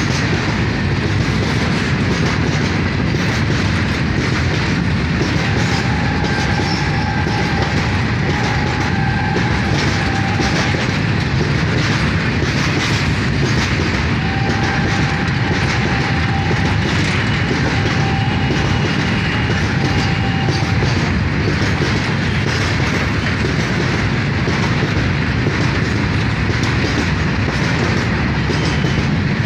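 Indian Railways freight train of covered goods wagons running past close by at speed: a steady, loud rush of wheels on the rails. Faint thin whines come and go in the middle of the passage.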